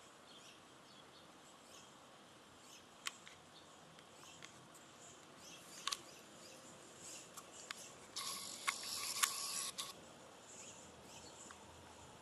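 Parrots feeding at a seed feeder: scattered sharp clicks and faint high chirps, with a louder scratchy noise from about eight seconds in that lasts nearly two seconds.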